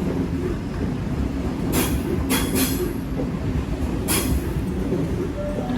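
Electric passenger train running slowly along the platform with a steady low rumble, broken by four short high-pitched hisses or squeals from the wheels or brakes over a couple of seconds.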